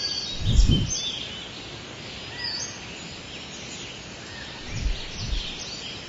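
Woodland birds chirping and singing over a steady outdoor hiss, with a few brief low whooshes: the strongest about half a second in, and two more near the end.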